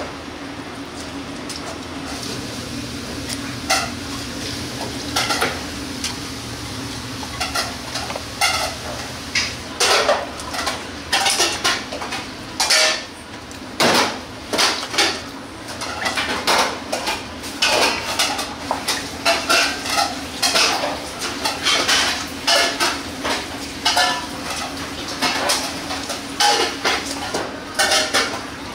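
Kitchenware clattering: repeated clinks and knocks of metal utensils, dishes and pans, sparse at first and busier in the second half, over a steady low hum.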